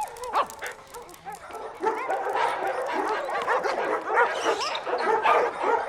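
Many dogs barking and yipping at once, their calls overlapping; sparse at first, then much busier and louder about two seconds in.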